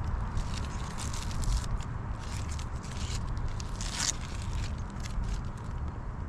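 Irregular scraping and crackling, with one louder scrape about four seconds in, over a steady low rumble.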